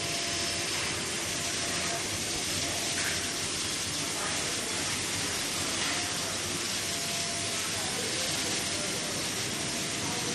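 Steady hissing noise from a running automatic PVC fridge door gasket welding machine.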